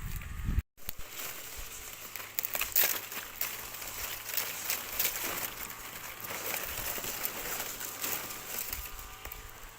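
Irregular crackling and rustling with scattered light clicks, like dry material being handled or stepped on.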